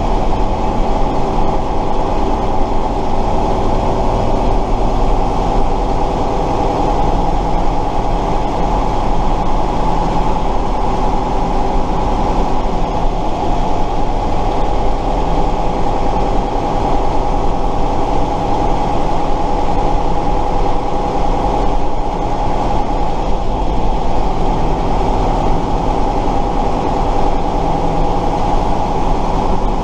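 Tatra 138 truck's air-cooled V8 diesel running steadily while driving, with an even, unbroken engine note.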